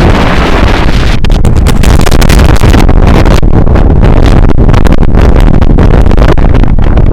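Strong wind buffeting the microphone: a loud, gusty rumble that drowns out everything else.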